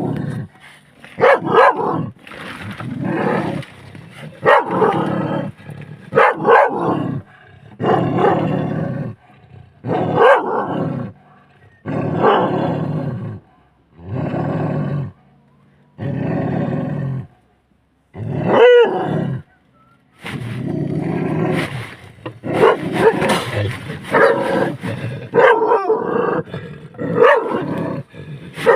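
A big cat roaring and growling again and again, about a dozen calls each roughly a second long, set against a dog's barking. The calls come closer together near the end.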